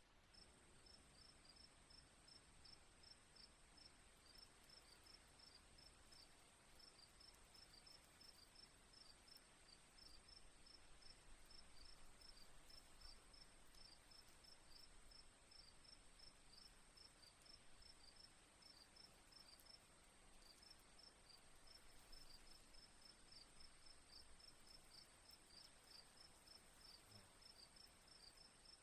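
Faint crickets chirping in a steady, regular rhythm of about three chirps a second, over a constant high-pitched insect drone.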